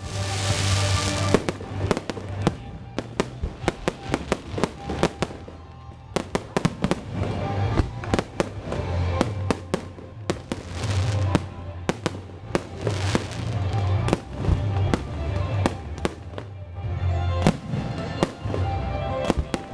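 Fireworks display: many sharp bangs and crackles in quick succession, with deeper booms, over music playing along with the show.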